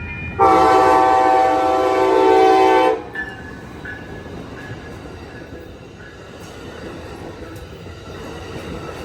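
Siemens Charger SC-44 locomotive's horn sounding one long, loud blast of about two and a half seconds, a chord of several steady tones. After it cuts off, the passing passenger train keeps rumbling steadily on the rails.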